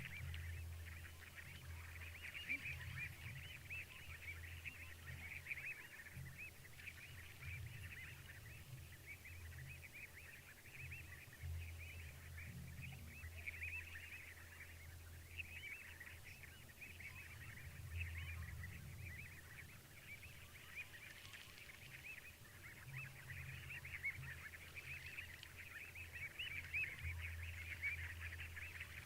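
A dense chorus of calling frogs, a steady mass of chirping, with a low rumble that comes and goes underneath.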